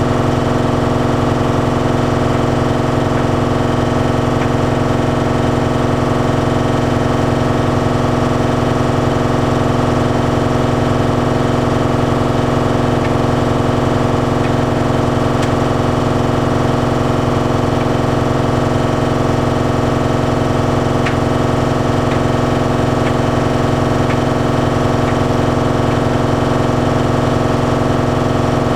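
Bosch Series 6 heat pump tumble dryer running mid-cycle on its Shirts programme: a steady hum from its heat pump compressor and fan with the drum turning, unchanging throughout. A few faint light ticks sound over it in the second half.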